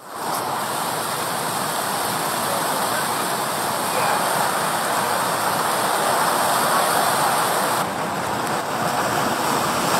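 Heavy, torrential rain falling steadily in a dense hiss, with slight shifts in level about four and eight seconds in.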